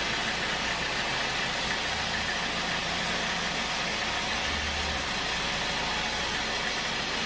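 Sawmill machinery running steadily, an even mechanical noise with a faint low hum.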